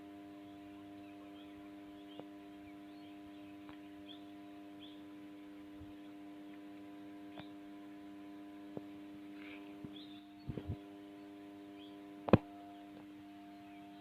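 Steady electrical mains hum from the agricultural motor's starter and wiring, with a few light clicks and one sharp click about twelve seconds in.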